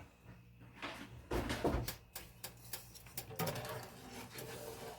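A pot of sugar water being handled on a kitchen stove: scattered knocks and clunks, then a run of quick light clicks.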